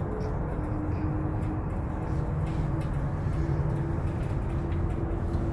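Aerial tram cabin travelling along its cables: a steady low rumble and hiss with a faint hum that steps up slightly in pitch about halfway through.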